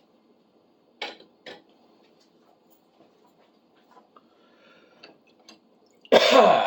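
Metal hand tools being handled on a workbench: two light knocks about a second in, then a loud metallic clatter near the end.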